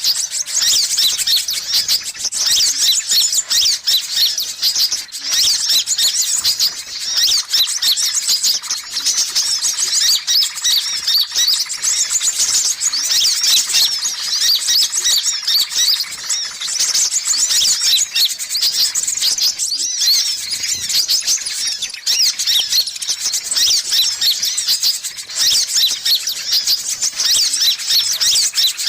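Sunbirds (kolibri ninja and kolibri kelapa) chattering continuously in rapid, high-pitched chirps and trills, dense and overlapping, as played for luring birds.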